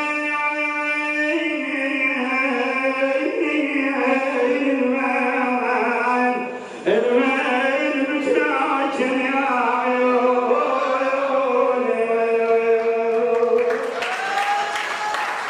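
A munshid's voice singing an unaccompanied religious chant, drawing out long held notes that bend slowly in pitch, with a brief break about halfway. Applause starts near the end.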